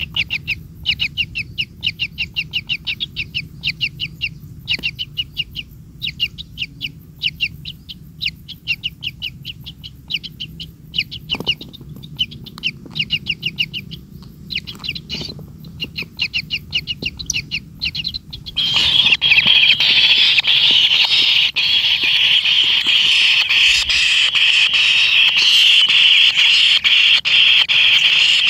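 Kingfisher nestlings calling: rapid trains of short, high chirps in bursts, then about two-thirds of the way through a much louder, continuous harsh churring takes over.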